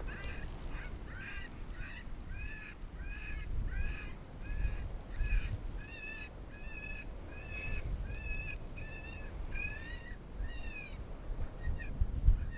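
A predator call playing a prey distress sound to lure coyotes: a steady series of short, pitched, squalling cries, about two a second, that stops shortly before the end.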